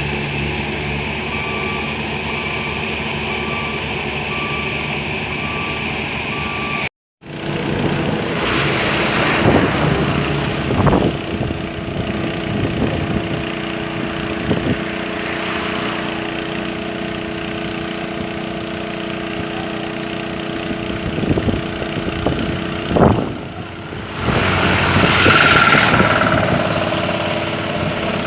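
Diesel engines of heavy road-construction machinery running steadily. For the first several seconds a reversing alarm beeps at a regular pace; after an abrupt cut the engines carry on, with occasional clanks.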